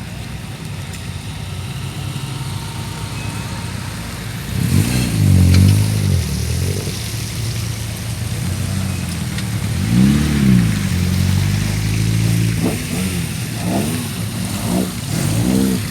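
Historic rally car engine idling and being blipped: a rev that rises and falls about four and a half seconds in, another around ten seconds in, then several quick short blips near the end.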